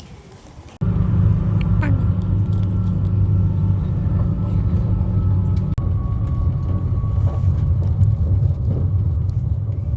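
Low, steady rumble of a moving vehicle, starting abruptly about a second in.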